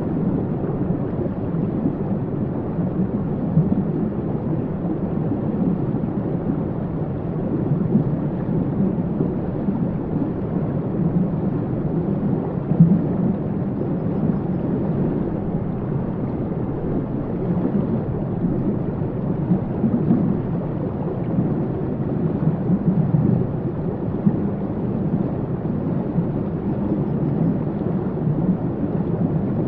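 Waterfall pouring steadily: an even, deep rush of water, muffled, with little hiss in the treble.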